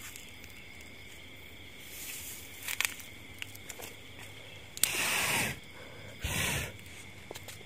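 Steady chirring of night insects, with a few short scraping noises, the loudest about five seconds in and again just after six.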